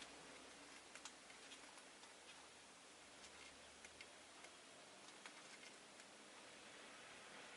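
Near silence with faint, irregular small ticks and taps, a few a second, from a rosy-faced lovebird moving about or picking at things in its cage, over a low hiss.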